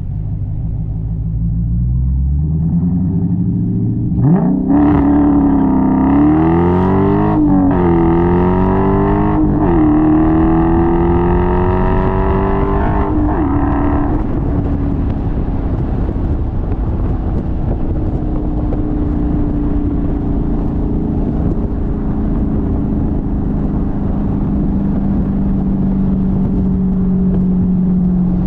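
Dodge Challenger engine under hard acceleration: after a few seconds of cruising it is floored about four seconds in and climbs in pitch, with quick breaks at upshifts, three pulls in all. At about fourteen seconds the throttle comes off and it settles into a steady cruising drone.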